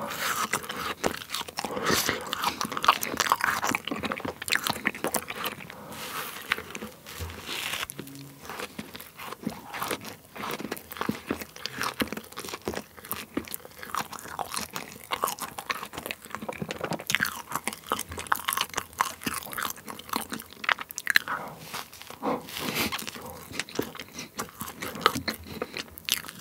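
Close-miked chewing of a whipped-cream fruit sandwich with strawberries, grapes and kiwi in soft white bread: wet, squishy chewing with many short mouth clicks and smacks.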